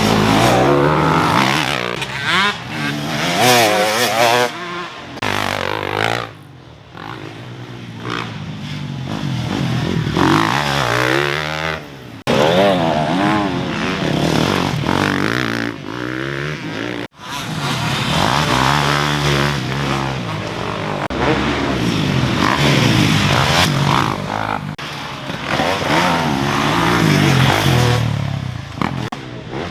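Dirt bike engine being ridden hard, revving up and falling back again and again as the throttle is worked through the gears. The sound cuts out abruptly for an instant about two-thirds of the way through.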